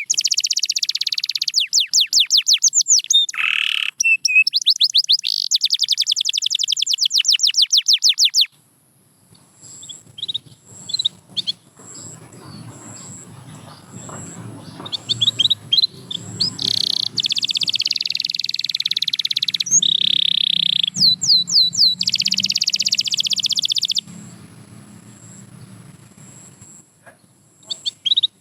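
Domestic canary singing fast trills of rapidly repeated high notes. The song comes in two long loud bursts, with a quieter stretch of scattered chirps between them.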